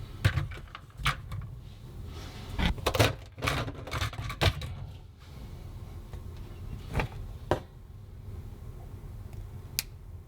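Clicks, knocks and light rustling from objects being handled, dense for about the first five seconds, then a few isolated clicks.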